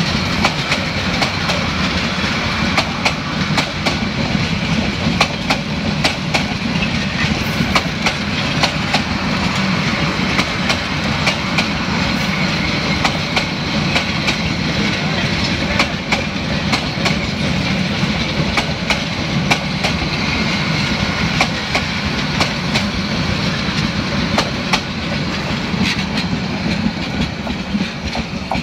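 Passenger coaches of an intercity train rolling past close by: a steady rumble of steel wheels on the rails, with many sharp clicks as the wheels run over rail joints.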